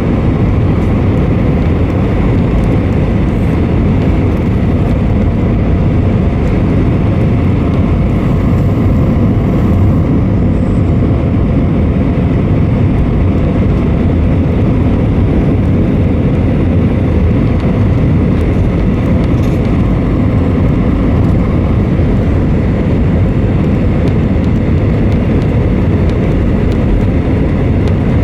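Steady cabin noise aboard an Airbus A320: a constant rumble of the engines and rushing air, strongest in the low end, without any change in level.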